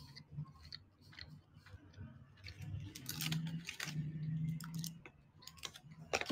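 A person chewing food with small mouth noises, with a few sharp clicks of a metal fork on the dish. The loudest click comes right at the end, and there is a low hum a few seconds in.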